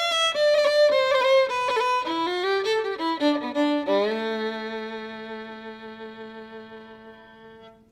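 Violin playing a quick run of notes that ends about four seconds in on a held two-note chord, which fades away slowly.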